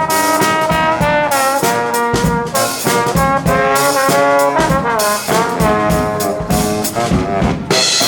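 Live brass band playing a tune: trombones and trumpets in harmony over a steady beat.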